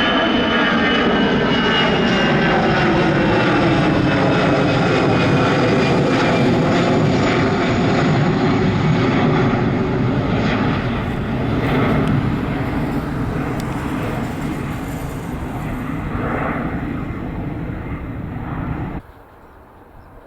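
Jet airliner passing close by, a loud engine roar whose whine slides down in pitch as it goes past, then slowly fades. The sound cuts off abruptly near the end.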